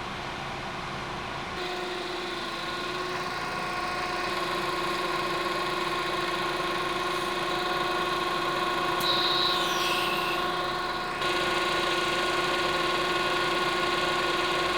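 2009 Honda Accord idling with its air conditioning running during an AC refrigerant recharge, a steady humming whine.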